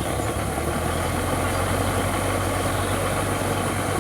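Sonalika DI 750 tractor's diesel engine running steadily with an even low hum.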